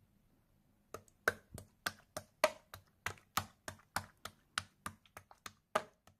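A quick, uneven run of light, sharp clicks or taps, about three a second, starting about a second in.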